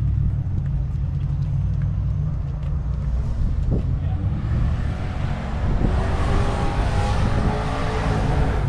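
A car engine running with a deep, steady rumble. From about halfway through, the sound grows brighter and fuller.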